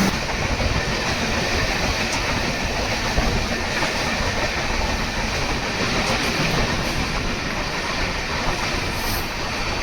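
Indian Railways express passenger train running on the track, a steady rumble of wheels on the rails.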